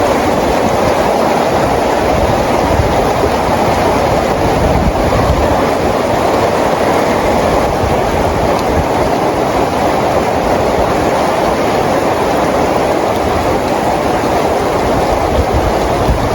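Steady rain falling, an even unbroken rush with a low rumble underneath.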